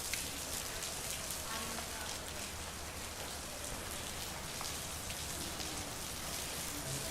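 Steady rain falling on a street, with many separate drops ticking.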